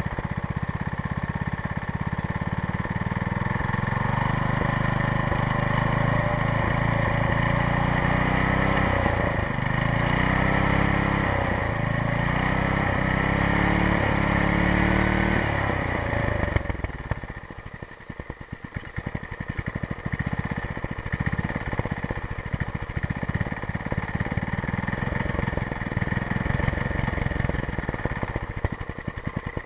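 5-horsepower Briggs & Stratton single-cylinder engine, fed by a Tecumseh two-stroke snowblower carburetor, running fast and revved up and down several times, then dropping a little over halfway through to a slower, uneven idle that is not yet properly set.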